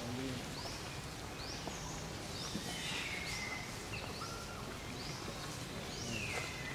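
A bird calling with short rising chirps, repeating about once a second, over a steady outdoor background hiss.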